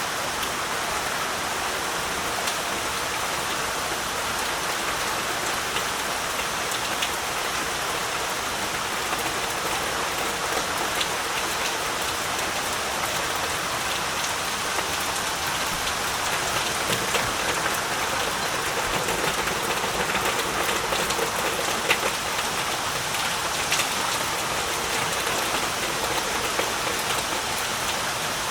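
Heavy rain falling steadily, a dense even hiss with many individual drops ticking on surfaces.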